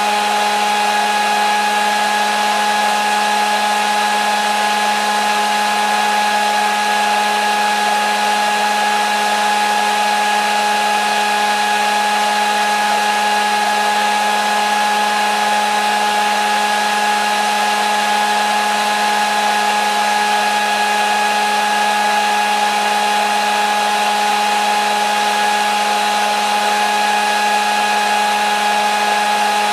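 Hair dryer running steadily: an even rush of blown air with a constant motor whine, no change in speed.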